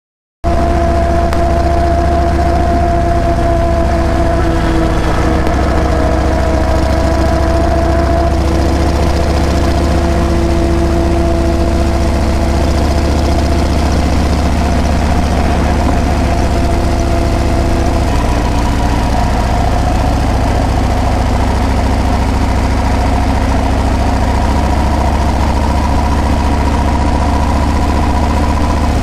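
Harley-Davidson Breakout's V-twin engine and exhaust running steadily at an even, low pitch, cutting in abruptly about half a second in.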